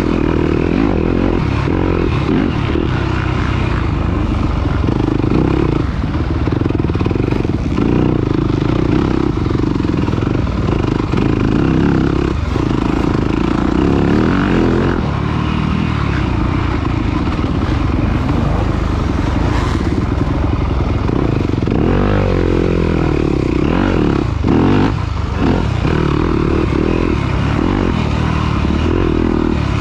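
Off-road dirt bike engine running hard, its pitch rising and falling with the throttle, with some clattering over rough ground.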